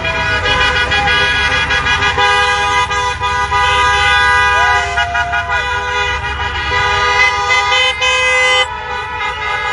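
Many vehicle horns honking at once in a continuous overlapping blare, with engines rumbling underneath; some of the horns stop near the end.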